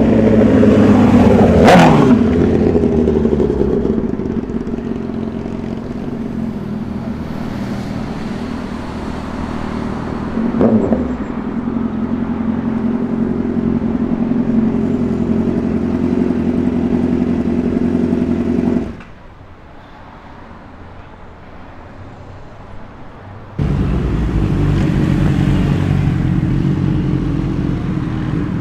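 A motorcycle engine running steadily at idle close by, with a vehicle passing about two seconds in and again about eleven seconds in. The engine sound breaks off abruptly about two-thirds of the way through, leaving quieter traffic, then comes back just as suddenly near the end.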